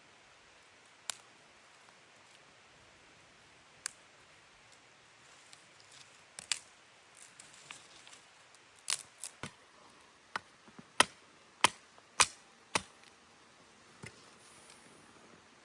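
A series of sharp, irregular clicks and snaps: a few scattered at first, then more of them close together and louder through the middle and later part, over a faint steady background.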